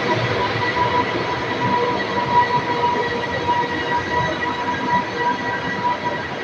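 A train running on the rails, a steady rumble with a constant high whine over it.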